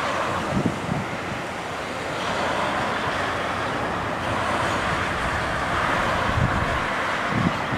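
Steady roar of jet aircraft engines, with wind buffeting the microphone in a few low thumps.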